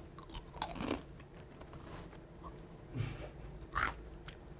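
A few brief, soft mouth and breath noises from someone chewing crunchy cereal, over a faint room hum.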